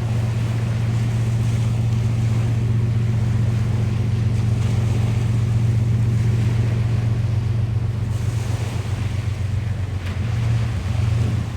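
A steady low engine drone holds at one pitch throughout, over wind and surf noise.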